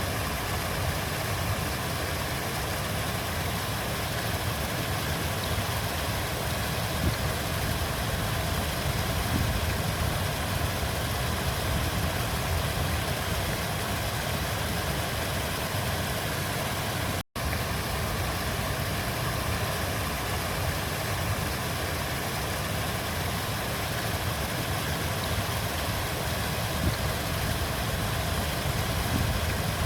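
River water flowing in a steady, even rush with a strong low rumble. About halfway through it cuts out for a split second and comes straight back.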